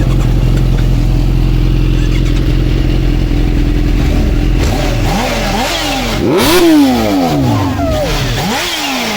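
Kawasaki Ninja H2's supercharged inline-four idling steadily, then revved in several quick throttle blips from about halfway, each rising and falling in pitch. The highest rev comes a little past the middle, and another follows near the end.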